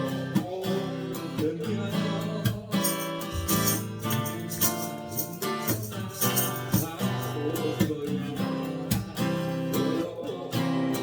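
Acoustic guitar playing a song, chords struck in a steady rhythm.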